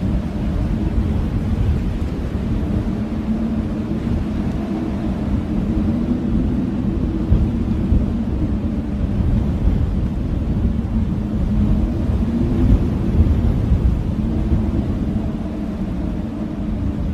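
Blizzard wind howling steadily, a deep rumbling roar with a low moaning tone that wavers slightly in pitch.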